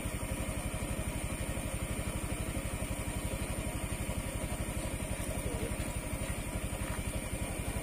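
A small engine idling steadily, with an even pulse of about ten beats a second and a faint high, steady whine above it.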